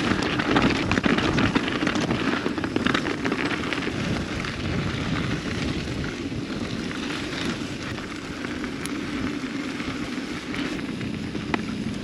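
Mountain bike rolling fast down a dirt trail: steady tyre noise on dirt and gravel with dense crackle and rattle, getting slightly quieter toward the end.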